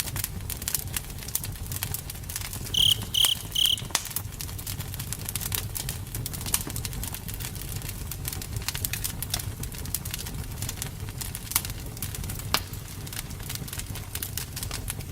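Campfire burning, with steady crackling and popping of the wood over a low rumble. About three seconds in, three short high chirps sound in quick succession.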